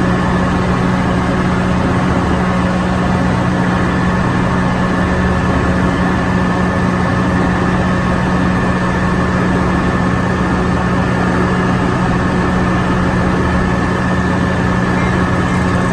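Caltrain diesel locomotive idling at the platform: a loud, steady engine hum with a constant low drone, unchanging throughout.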